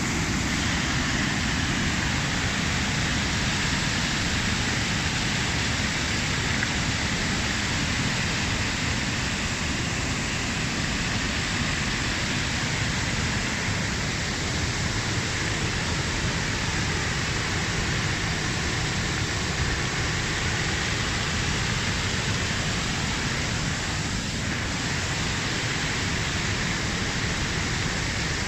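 Steady rushing of water pouring down a small urban waterfall, an even, unbroken hiss.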